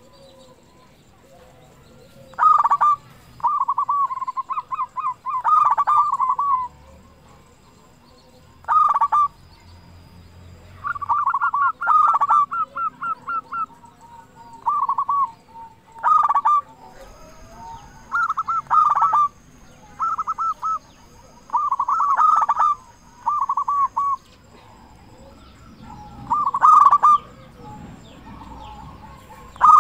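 Zebra dove (perkutut) cooing: a dozen or so phrases of quick, rolling, purring notes, each often opening with a sharper, higher note, repeated with short pauses between them.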